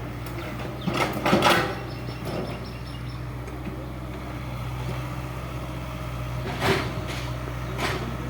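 Heavy machinery engine running steadily, with a burst of loud clattering knocks about a second in and two more single knocks near the end.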